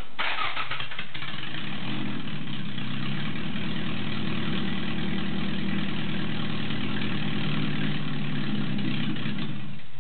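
Toyota 3S-GE Beams Blacktop 2.0-litre four-cylinder engine, freshly swapped into a Celica ST182, starting up on an early test firing. It catches within about a second, runs at a steady idle, then shuts off just before the end.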